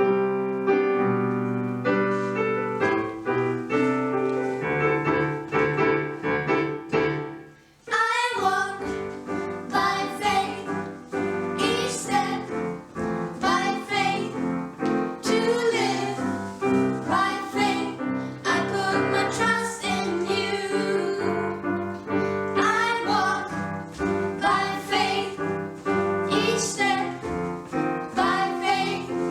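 A song played on piano or keyboard. The first eight seconds or so are an instrumental introduction, then voices come in singing over the piano accompaniment.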